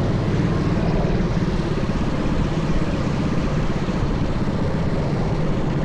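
Minibike's small engine running steadily at an even speed, with a low steady hum.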